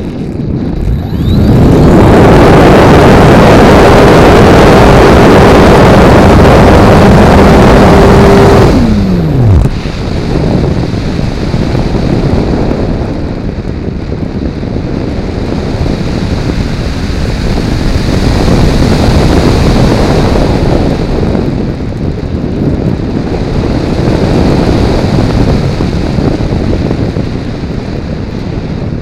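Propeller drive of a Multiplex Blizzard RC model plane running at full power with a steady whine, starting about two seconds in. About nine seconds in the motor is cut and its pitch drops away. After that there is only wind rushing over the onboard camera, swelling and fading as the plane glides.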